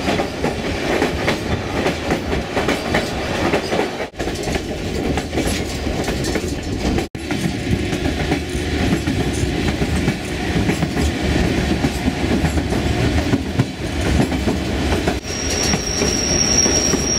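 Narrow-gauge White Pass & Yukon Route train cars rumbling and clacking steadily over the rails. A high, steady wheel squeal joins in near the end.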